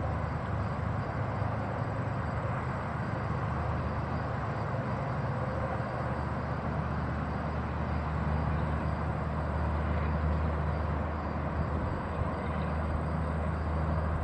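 Steady low rumble of a distant Norfolk Southern diesel freight train, heard as a drone under an even hiss.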